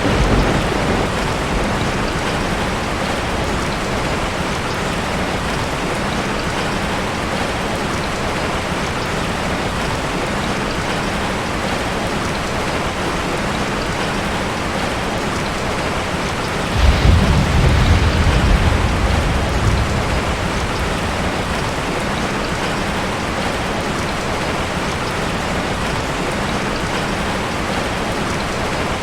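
Heavy rain falling steadily on a tin roof. A short low rumble of thunder comes at the start, and a louder roll of thunder comes about seventeen seconds in and lasts around three seconds.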